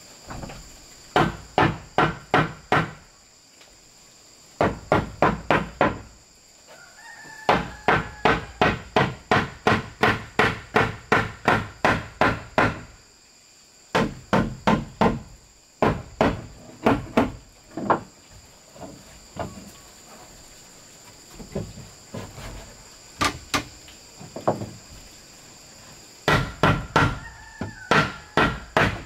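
Hammer driving nails into wood in quick runs of blows, about five a second, each run lasting a few seconds with short pauses between. A steady high buzz of insects runs underneath.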